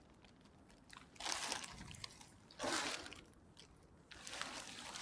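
Water splashing and sloshing in three short bursts about a second apart: a hooked silver bream thrashing at the surface as it is drawn in to the bank.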